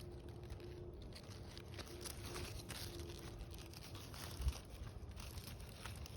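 Faint rustling and crinkling over a low rumble, with a single thump about four and a half seconds in.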